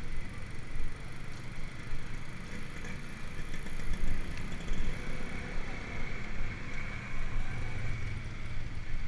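Riding noise from a mountain bike on the move: wind buffeting the microphone over the rumble of the bike rolling along, with a faint high whine through the first half.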